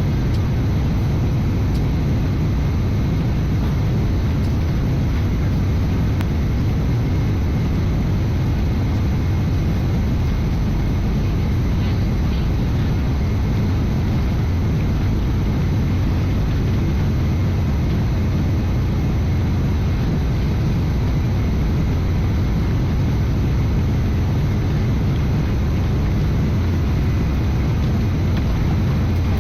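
Steady cabin noise of a Boeing 747-400 airliner: a constant low rumble of engines and airflow, unchanging in level.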